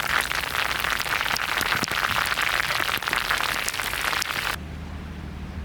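Heavy rain falling: a dense hiss full of individual drop hits. About four and a half seconds in it cuts off abruptly to a quieter low, steady hum.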